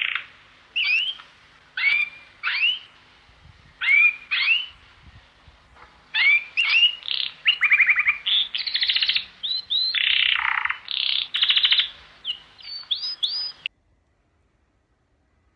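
A songbird singing: short rising notes, often in pairs, then a faster run of trilled phrases, stopping suddenly near the end.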